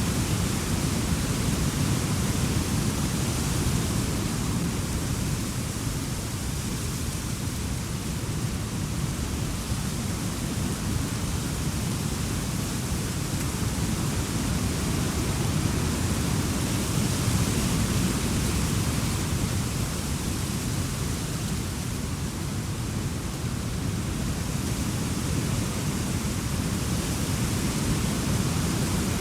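Wind blowing steadily, a deep rumble with a hiss on top that swells and eases slowly over many seconds.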